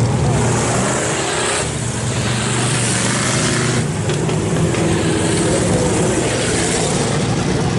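Race car engines running steadily, with a broad rushing noise over them.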